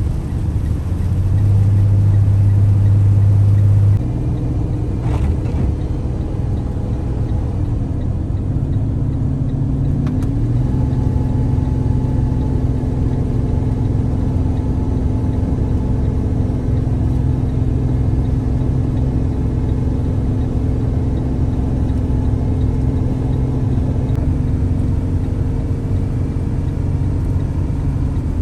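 RV engine and road noise while driving, a steady low drone. The engine's pitch shifts around eight to ten seconds in, as with a gear change or a change of speed.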